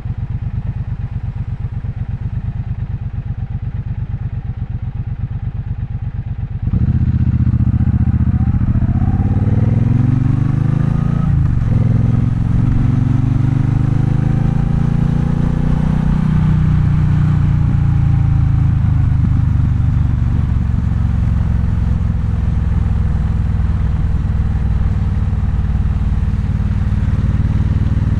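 Triumph Bonneville Bobber's parallel-twin engine idling with an even pulse, then about seven seconds in it pulls away and gets suddenly louder. The engine note climbs and dips while it accelerates, peaks, then eases off to a steady cruise.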